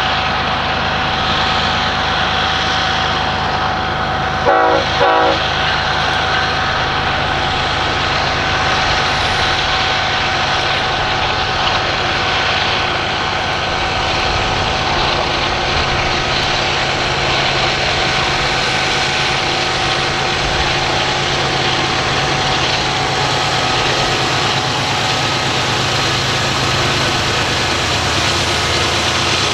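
Loaded coal train passing on the grade: a steady rolling rumble of wheels and cars with a thin steady squeal tone over it. About four and a half seconds in, two short, loud pitched blasts sound in quick succession.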